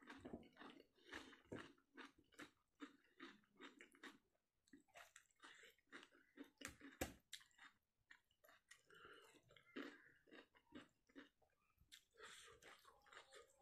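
Quiet wet chewing and mouth clicks of a person eating whole fish curry with rice by hand, with fingers picking the fish meat off its bones; one sharper click about seven seconds in.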